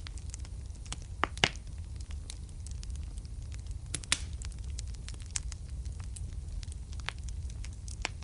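Wood fire burning in a fireplace: a steady low rumble with frequent sharp crackles and pops, the loudest about a second and a half in and again about four seconds in.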